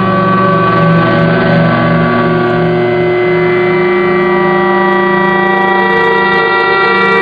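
Handmade three-oscillator analog drone synth, run through a resonant low-pass filter, sounding a loud, steady drone of several held tones at once. The low tones flutter for the first few seconds, then settle about four seconds in as some pitches shift.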